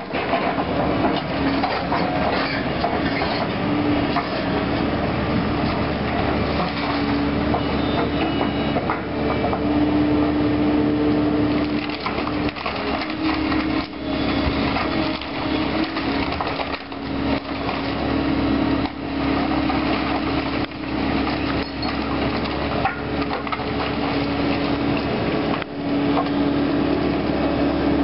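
Caterpillar excavator running with a steady engine drone that rises and falls in pitch, while wood debris cracks, splinters and crunches under its bucket, with many sharp knocks throughout.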